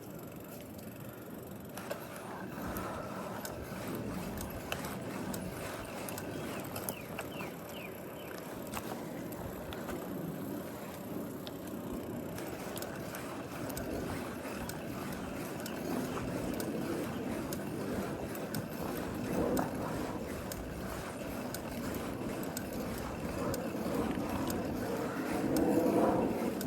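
Street traffic and road noise: a steady rush with scattered small clicks and knocks, growing louder near the end.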